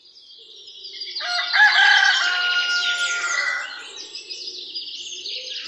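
A rooster crowing over small birds chirping, fading in from quiet; the sound is loudest in the middle and then tapers off.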